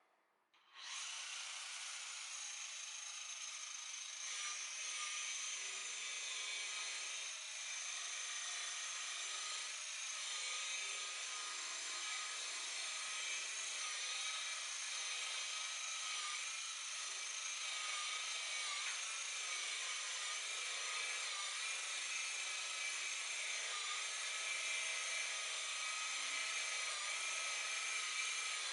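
Electric polisher (buffer) switched on about a second in and running steadily with a high-pitched whine, as it buffs oxidation out of a boat's fibreglass gelcoat with compound.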